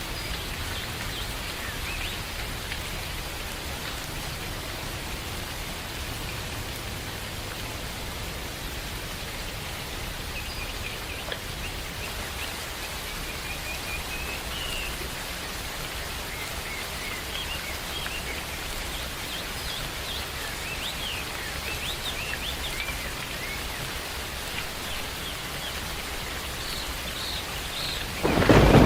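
Steady rain falling in a forest, with scattered short bird chirps over it. Just before the end a sudden loud clap of thunder breaks in.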